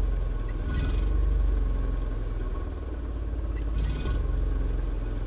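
Small 1.2-litre car engine running with a steady low rumble, with brief hissing bursts about a second in and again just before four seconds.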